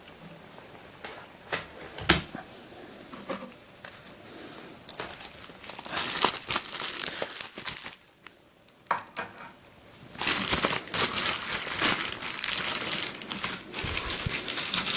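Packaging crinkling and tearing as a small free gift, a cube stand, is unwrapped by hand. The sound comes in scattered crackles, pauses briefly about eight seconds in, then turns into dense steady crinkling for the last few seconds.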